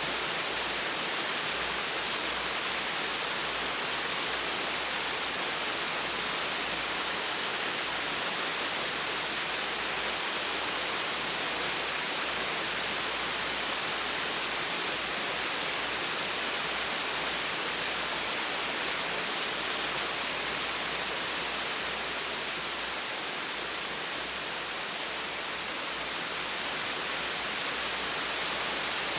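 Small waterfall splashing steadily, an even rush of falling water with no other events.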